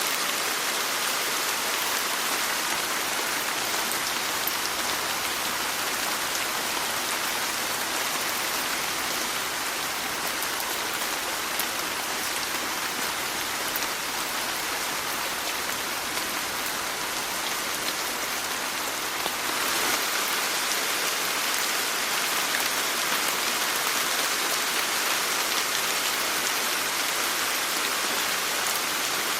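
Steady rain falling in an even, dense hiss, with a few faint drop ticks; it gets slightly louder about two-thirds of the way through.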